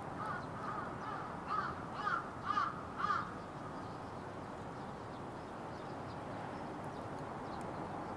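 A crow cawing about seven times in quick succession, roughly two caws a second, the last few loudest.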